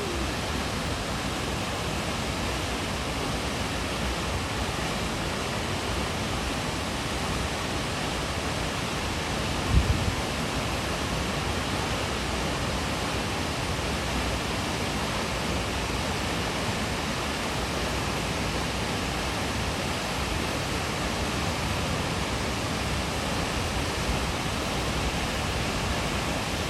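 Steady rush of water pouring over the Haew Suwat waterfall, with a single brief low thump about ten seconds in.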